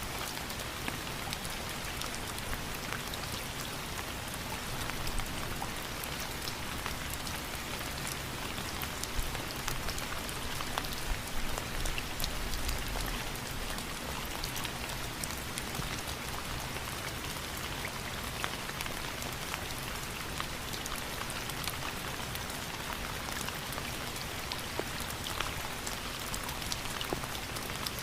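Steady rain, with a dense patter of individual drops hitting a surface.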